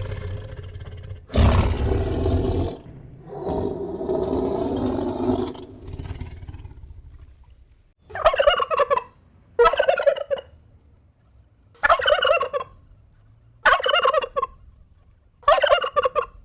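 Animal calls: a few longer calls in the first half, then five short warbling calls about two seconds apart.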